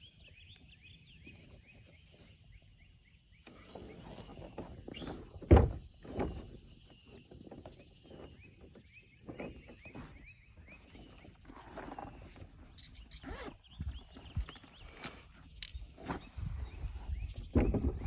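Irregular rustling and knocking of gear being handled, with one sharp thump about five and a half seconds in. Before that the first few seconds hold only a run of short repeated high chirps. A steady high hiss runs throughout.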